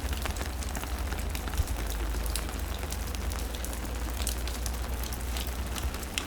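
Steady rain falling, with many individual drops ticking close by and a low rumble underneath.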